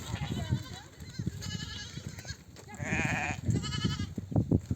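Sheep bleating: several quavering bleats from different animals, overlapping and following one another, typical of ewes and lambs calling to each other at nursing time. Irregular low thudding runs underneath.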